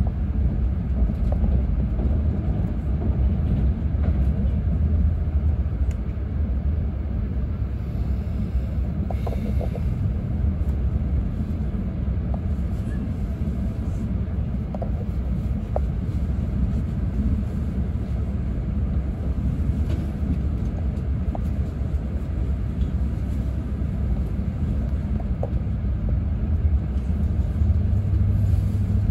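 Steady low rumble of an E6 series Shinkansen train running, heard from inside the passenger car, with a few faint ticks. A low hum comes up stronger near the end.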